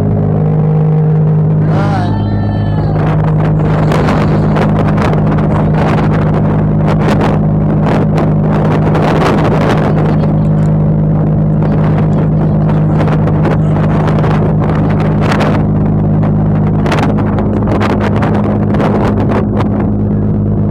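Ferry engines running with a loud, steady drone at the stern. A brief high-pitched sound comes about two seconds in, and irregular knocks and clatter are heard over the drone.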